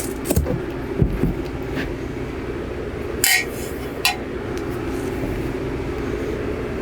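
Several knocks and clatters of the dinette table and cushions being laid into place to make a bed, over a steady hum. The sharpest knock comes about three seconds in.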